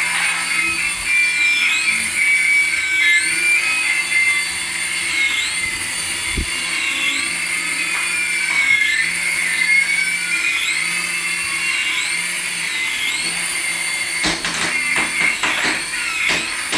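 Electronic sound effects: a high warble repeating about once a second, with short beeping tones at the start and two long pitch sweeps, one rising and one falling, crossing in the middle. A rattle of clicks comes in near the end.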